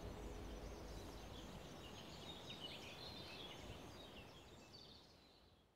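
Faint songbirds chirping and trilling in quick short calls over a soft outdoor hush, fading out near the end.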